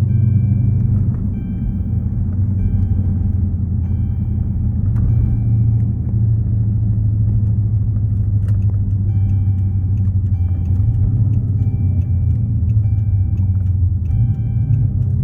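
Dodge Charger Super Bee's 392 (6.4 L) HEMI V8 idling with a steady low rumble. Over it a dashboard warning chime repeats about every second and a quarter, five times, pauses, then five more.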